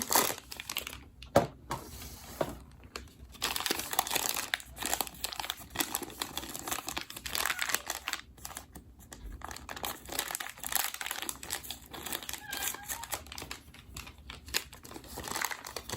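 Packaging bag crinkling and crackling as it is handled and opened, with a sharp tap about a second and a half in.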